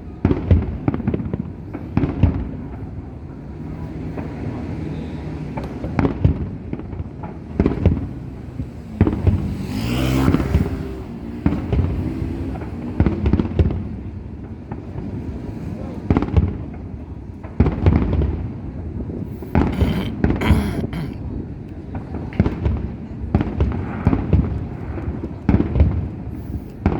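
Fireworks display: a steady string of bangs from aerial shells bursting at irregular intervals, with denser crackling bursts about ten seconds in and again past the two-thirds mark.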